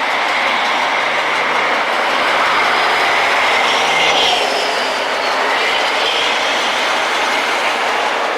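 Rail grinder working along the track: a loud, steady rushing hiss of grinding wheels on the steel railhead, swelling a little about four seconds in, with a faint high whine that rises and falls.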